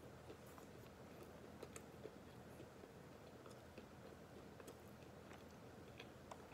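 Faint closed-mouth chewing of dry, uncooked chicken ramen noodles: scattered small clicks over a low steady hum.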